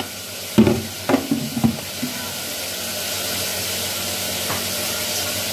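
Food sizzling in hot oil: a steady frying hiss that settles in after a few short knocks and clatters in the first two seconds.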